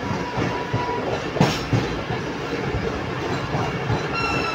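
Passenger train running slowly through a station, heard from an open coach doorway: a steady rumble with the wheels knocking over rail joints and points, one sharper knock about a second and a half in. Near the end a high wheel squeal sets in.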